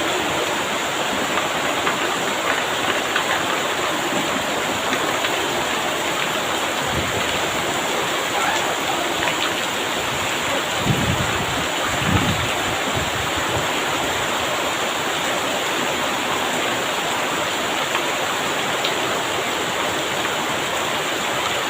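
Heavy rain pouring steadily in strong wind, with a couple of brief low gusts about halfway through.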